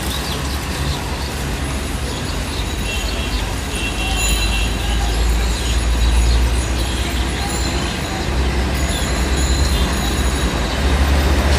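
Heavy truck's engine running as it moves along the road in traffic, a low rumble that grows louder near the end.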